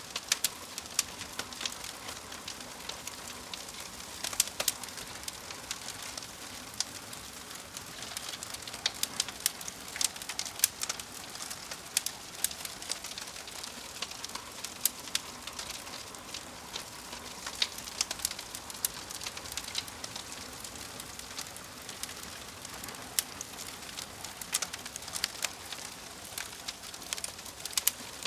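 Wood fire burning in a fireplace: a steady hiss of flames with frequent, irregular sharp crackles and pops as the logs burn.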